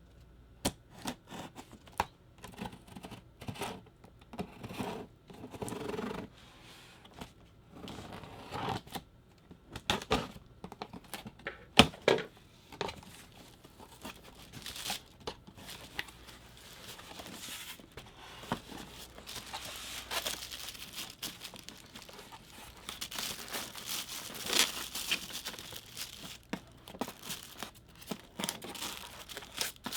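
Packaging of a food dehydrator being opened by hand: scattered knocks and clicks as the box and its contents are handled, then, a little past halfway, a long stretch of tearing and crinkling packaging.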